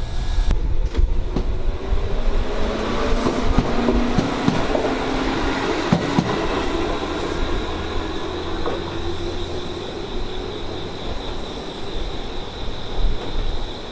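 Tobu Tojo Line electric train running past, with the hum of its traction motors and clicks of the wheels over rail joints through the middle. Strong wind buffets the microphone underneath.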